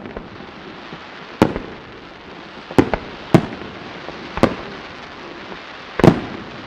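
Aerial firework shells bursting overhead: about six sharp bangs spaced unevenly, the loudest a double bang near the end, each with a short echoing tail, over a steady hiss.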